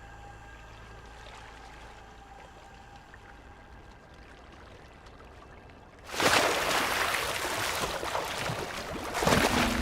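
A polar bear plunging into the water after a seal: a sudden loud splash about six seconds in, followed by churning, rushing water. Before it, only faint sustained music tones.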